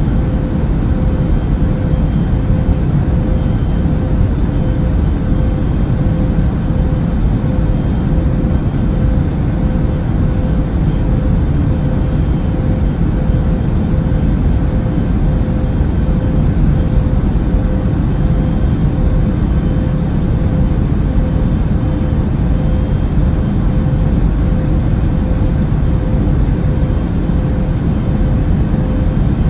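Airbus A380 cabin noise in cruise flight: a steady, deep rush of engine and airflow with a faint steady hum over it.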